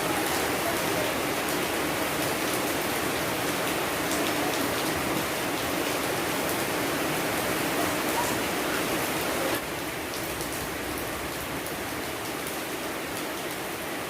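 Steady rain, with scattered drops ticking sharply over the even hiss. About two-thirds of the way in it drops suddenly to a quieter, thinner rain.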